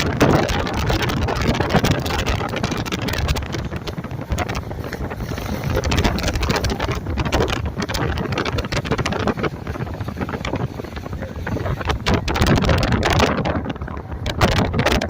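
A car driving, its road noise overlaid by wind buffeting the microphone in uneven gusts.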